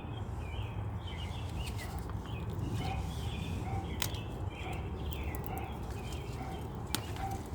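Birds chirping faintly and repeatedly in the background, over a steady low rumble on the microphone, with a few small clicks.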